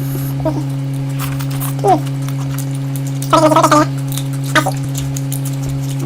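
A steady low electrical hum, with two brief voice sounds and a few small clicks.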